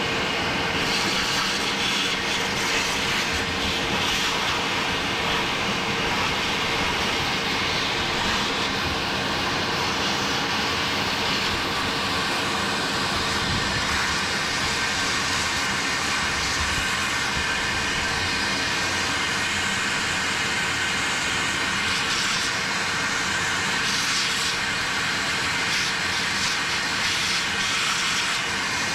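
Vacuum cleaner running steadily with a constant whine, sucking caked grass and debris off a riding mower's engine.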